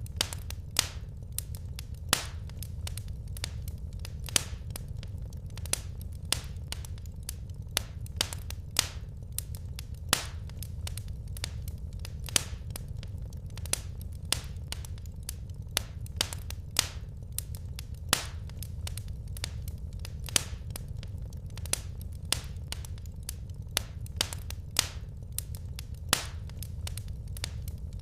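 Wood fire crackling in a fireplace: a steady low rumble of flames with sharp pops and snaps, a loud one every second or two among many smaller ticks.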